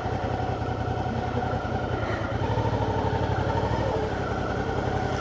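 Motorcycle engine running steadily at idle, getting a little louder about halfway through.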